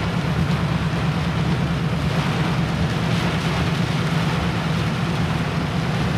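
A vehicle driving through flood water, heard from inside the cab: a steady low engine hum under a constant rushing hiss of water from the tyres.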